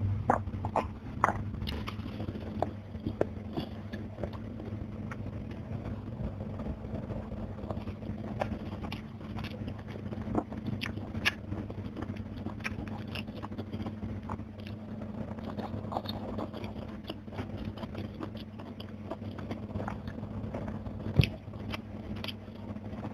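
Close-miked eating sounds: chewing and crunching of crisp fried fish and vegetables eaten by hand, with many short wet clicks and crackles. There is one loud crack near the end, over a steady low hum.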